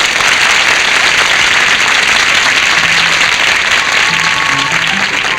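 Studio audience applauding. Faint notes of music begin under the applause about halfway through.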